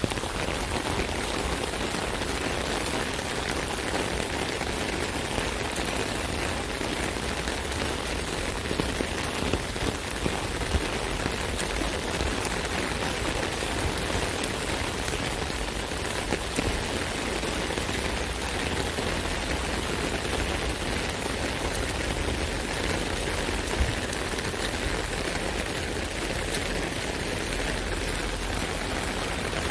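Steady rain falling on an umbrella: a dense, even patter of drops hitting the fabric, with an occasional heavier drop standing out.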